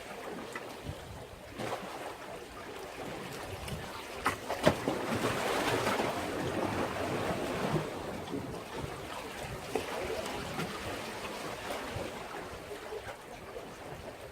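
Sea waves washing against a breakwater, a wave building about four seconds in and easing away over the next few seconds, with a few sharp slaps as the water hits.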